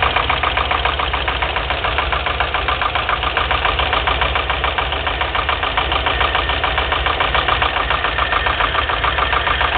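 UMZ-4215 four-cylinder petrol engine idling with a steady, rhythmic knock that does not go away when the spark plug caps are pulled one at a time; the owner cannot tell whether it comes from the camshaft and lifters or from a piston pin.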